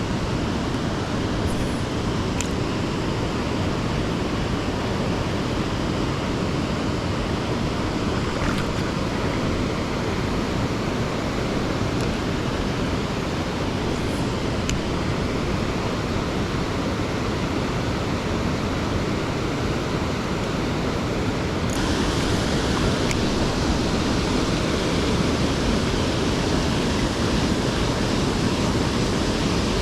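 Steady rush of a waterfall and fast river water, with more hiss from about two-thirds of the way in.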